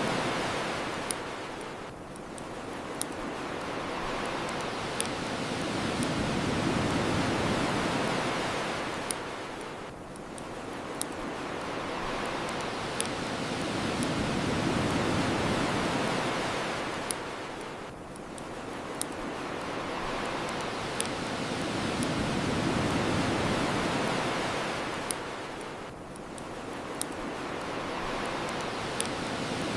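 Ocean waves washing onto a shore, swelling and receding in an even cycle about every eight seconds, with sharp, scattered pops from a crackling bonfire.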